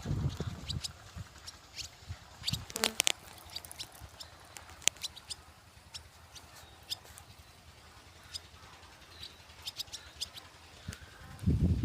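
Small birds giving short, sharp chirps and squeaks at irregular intervals, with low thumps near the start and again near the end.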